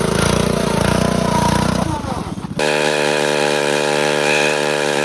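Small single-cylinder mini bike engine running with a fast, rapid firing. About two and a half seconds in, it cuts abruptly to a steady, even engine drone with little low end.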